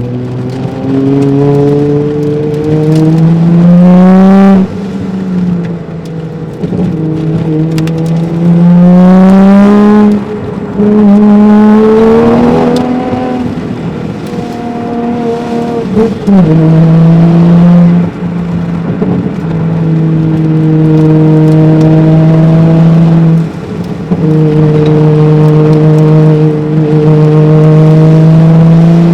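Toyota Soarer's 1JZ-GTE twin-turbo straight-six heard from inside the cabin under hard driving: the engine note climbs in pitch several times in the first half, dropping abruptly with each shift or lift. In the second half it holds at steady high revs for long stretches, with a short dip in between.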